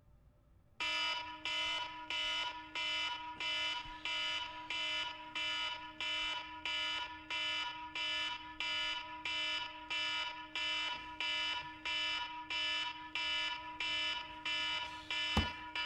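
Electronic alarm beeping in a steady, even pulse, about one and a half beeps a second, starting about a second in. A single sharp knock comes near the end.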